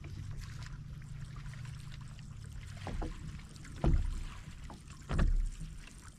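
Kayak on the water: a steady low hum with a few knocks, two heavy low thumps about four and five seconds in.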